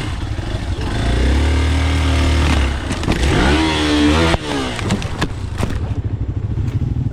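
Dirt bike engine revving: it holds a steady higher pitch, then revs up with rising pitch and drops off sharply about four seconds in, falling back to a low idle with separate firing beats.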